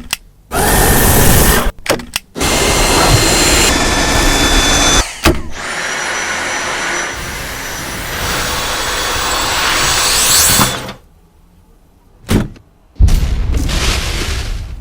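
Vacuum cleaner motor running in a string of short clips, the steady whirring noise starting and cutting off abruptly several times, with a pause of a little over a second near the end.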